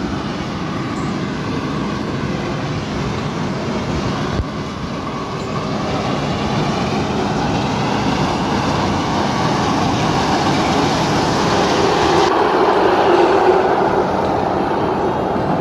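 Rice combine harvester running steadily, a dense mechanical drone that grows somewhat louder over the second half.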